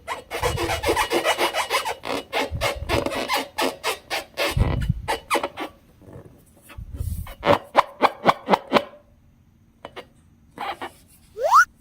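Slime being worked by hand, a dense run of crackling clicks and wet squishes that thins out after about nine seconds. A short rising squeak comes near the end.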